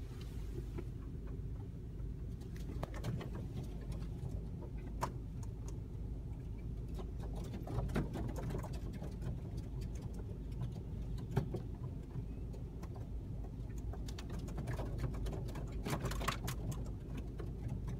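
A big flock of blackbirds calling, many short overlapping calls that thicken near the end, over a steady low rumble.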